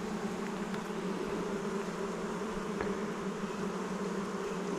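Honey bees buzzing in a steady hum around an open hive during an inspection.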